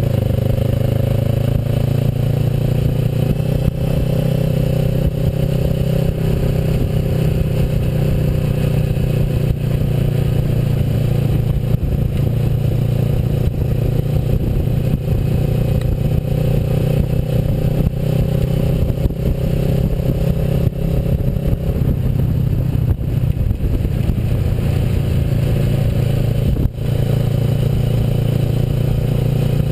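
Kawasaki Versys motorcycle engine running steadily while riding, heard from the bike, with a rough clattering road noise under it.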